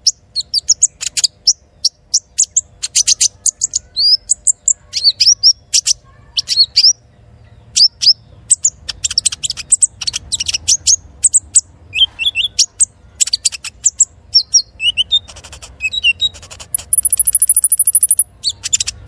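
Kolibri ninja (konin) sunbird singing: rapid runs of short, high-pitched chirps and quick whistled notes. Near the end comes a long, fast, very high trill.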